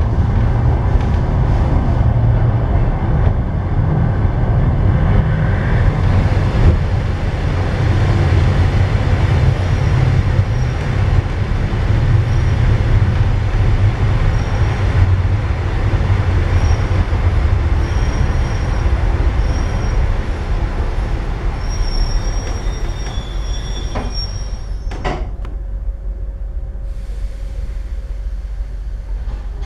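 Passenger train running and slowing into a station: steady wheel rumble on the rails with intermittent high brake or wheel squeal that grows near the end. About 25 seconds in it comes to a stop with a short sharp sound, leaving only a low steady hum.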